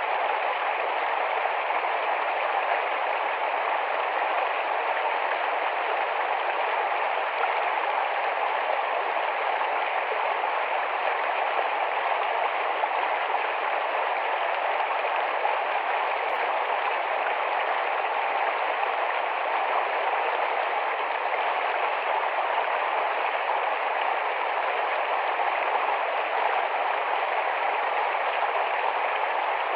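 Small, fast-flowing forest stream rushing and babbling over rocks, a steady, even water noise without a break.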